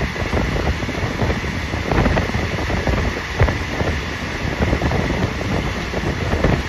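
Passenger train running at speed, heard from inside the carriage: a steady rumble of the wheels on the track with irregular knocks, and wind buffeting the microphone.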